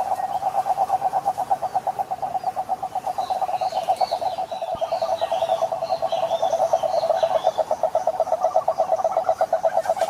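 Frogs calling: one steady, rapid pulsed trill held at one pitch, with higher, scattered chirps from other calling frogs joining in the middle.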